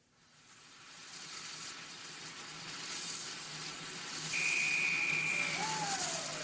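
A steady hiss fades in from silence and grows louder. About two-thirds of the way through comes a short, high, steady whistle, and near the end a tone that falls in pitch.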